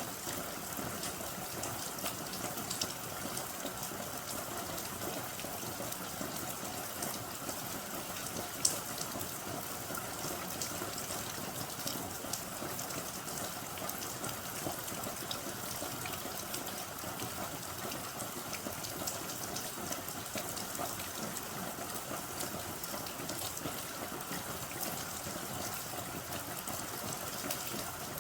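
Steady rain falling, an even hiss with many small drops ticking, and one sharper drop hit about eight and a half seconds in.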